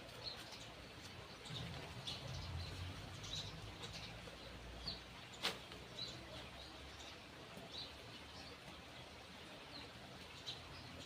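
Small birds chirping with short high calls repeated every second or so. There is a single sharp click about five and a half seconds in, and a low rumble in the first few seconds.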